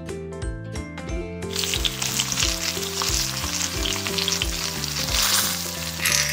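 Silkworm pupae frying in hot oil in a small cast-iron pan: a steady, dense sizzle that starts about one and a half seconds in and flares louder near the end. Background music with a steady beat plays throughout.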